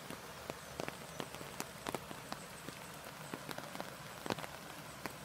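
Raindrops ticking irregularly, several a second, over a steady hiss of rain or running water.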